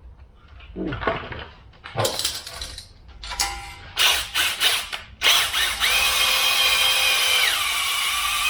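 A few short clanks and rattles of tools against the engine block. Then, about five seconds in, an electric drill spinning a stone cylinder hone starts up and runs steadily with a whine. Its pitch drops about two seconds later as the drill slows.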